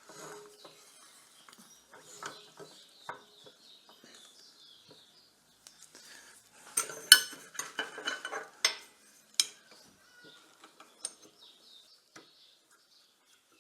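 Metal clinks and knocks as the parts of a ball turning jig are handled and locked in place. The sharp clinks come in a busier cluster about seven to nine seconds in.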